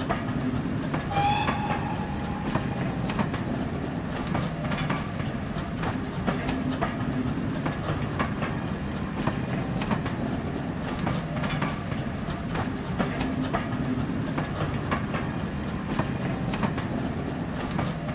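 Railway coaches rolling past, their wheels clicking over the rail joints, with a brief high tone about a second in.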